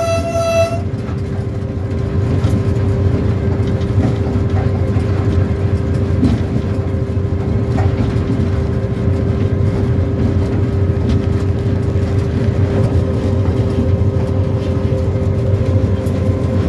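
A train's horn cuts off in the first second; after that comes the steady running rumble and hum of a train at speed, with scattered clicks of the wheels over the track.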